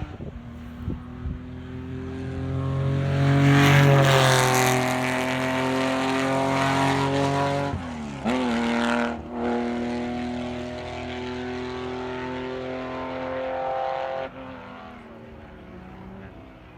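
Porsche rally car engine passing at speed, growing loudest a few seconds in with the note falling as it goes by. About halfway through the note dips briefly and climbs again, like a gear change. It holds a steady pull, then drops off sharply near the end and fades as the car goes away.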